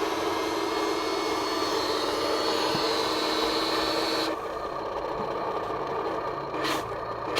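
Radio-controlled model construction machine running, a steady mechanical hum that drops abruptly to a quieter, duller sound about four seconds in.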